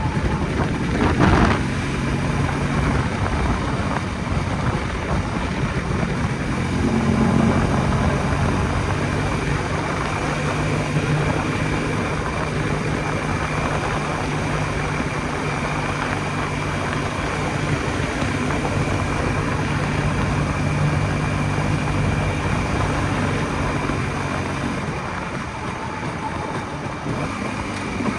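Jawa 250 type 559 single-cylinder two-stroke motorcycle engine running steadily under way, with wind and road noise. A brief louder spot comes about a second in, the engine note lifts around seven seconds, and it eases off a little near the end.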